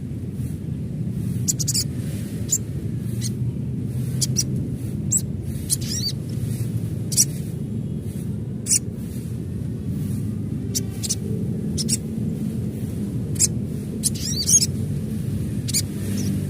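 Sunbird (sogon) calls: short, sharp, high-pitched chirps at irregular intervals, a few sweeping quickly in pitch, over a steady low rumble.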